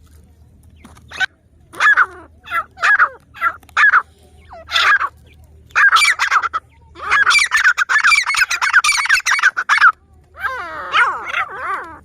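Grey francolin (teetar) calling: short, harsh, repeated notes that run together into a long rapid chatter from about seven to ten seconds in, then another burst of calls near the end.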